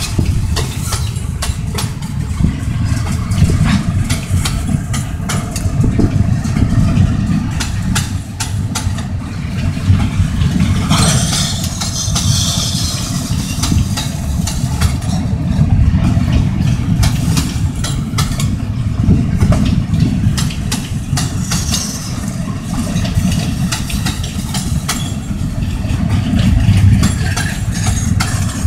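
Freight gondola cars of a passing train rolling by close at hand: a steady low rumble of steel wheels on the rails, with a constant patter of clicks and clacks. A brief high hiss rises about eleven seconds in.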